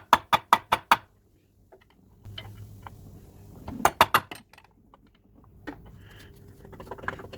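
Hand ratchet clicking in two short runs of quick, evenly spaced clicks, one at the start and one about four seconds in, as a bolt is undone.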